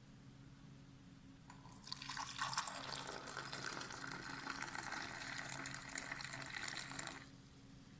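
Liquid poured in a steady stream into a vessel, starting about a second and a half in and stopping near the end.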